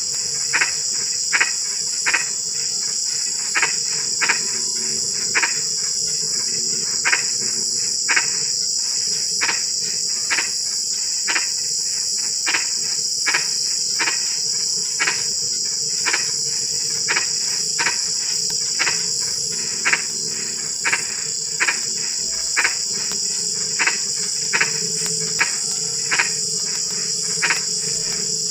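Frogs calling at night, with short, sharp croaks repeated about once or twice a second over a steady, high-pitched insect chorus.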